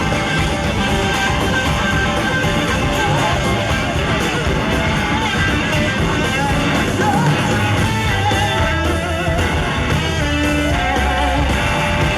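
A live rock-soul band playing, with electric guitar prominent and a gliding lead line over the full band.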